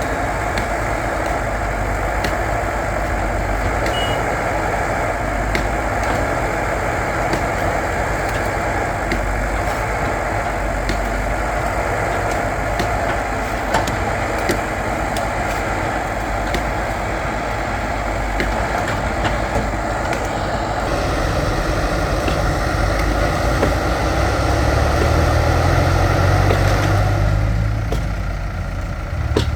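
Backhoe loader's diesel engine running steadily as it works, with small clanks over it. A deeper engine note builds about three quarters of the way through, and the higher engine noise cuts off suddenly near the end.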